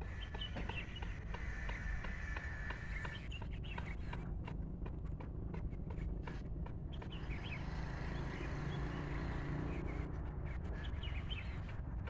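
Birds calling from scrub: scattered short chirps, with a trill in the first few seconds, over a steady low rumble.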